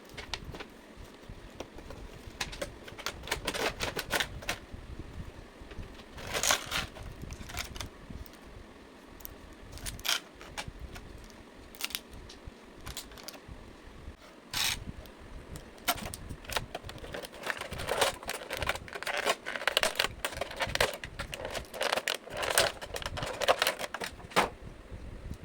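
Irregular clicks, crackles and short scrapes of an action figure's plastic and cardboard packaging being handled and opened by hand, thickest near the end.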